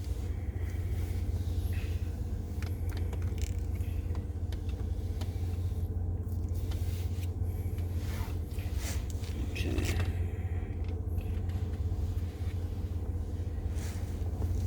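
Steady low rumble with faint scattered scrapes and clicks.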